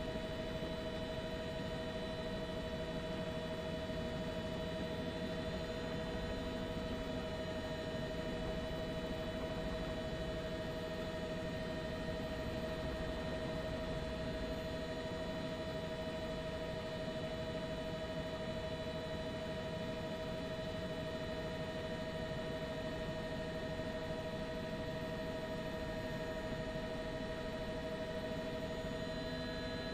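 Steady helicopter cabin noise heard through the onboard microphone: a constant drone with several fixed whining tones from the engine and gearbox, unchanging throughout.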